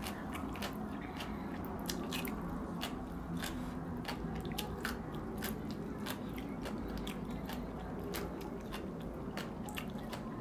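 Chewing and biting heard close to the microphone: irregular small crunches and mouth clicks over a low steady hum.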